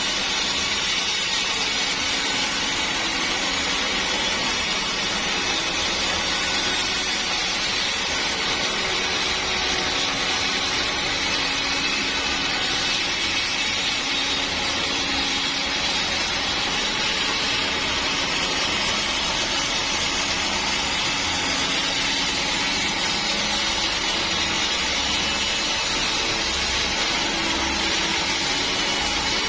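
Sawmill saw running steadily through a large log, an unbroken, even noise with no pauses.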